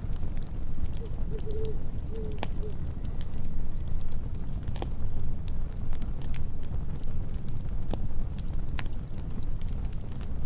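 Campfire burning with a low steady rumble and irregular sharp crackles and pops, while a cricket chirps steadily about once every 0.8 seconds. A brief low wavering call sounds about a second in.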